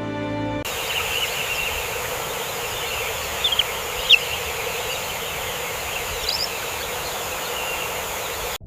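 Natural ambience: a steady hiss of insects with a few short, high bird chirps, a pair about three and a half to four seconds in and another a little after six seconds.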